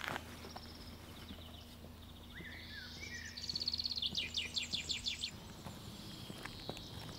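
Small songbird singing a few high chirping phrases, including a quick trill in the middle, over faint outdoor background noise.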